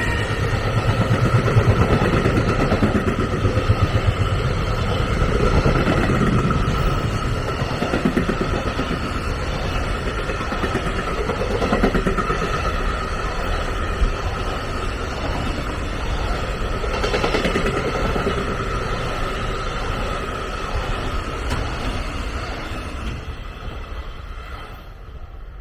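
A train running past on the tracks, a steady rumble for over twenty seconds that fades away near the end.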